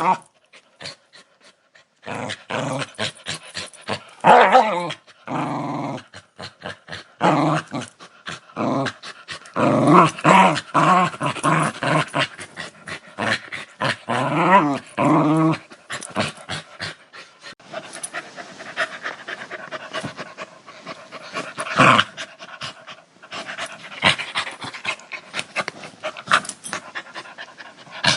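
A dog growling in repeated short bouts through the first half, some rising and falling in pitch. In the second half it gives way to quick, breathy panting with the odd sharper sound.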